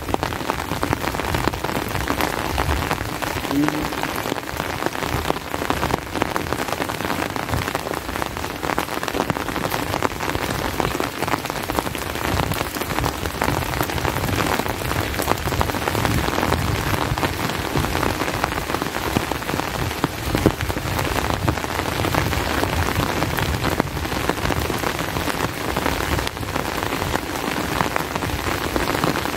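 Steady rain with a dense patter of drops, unchanging throughout.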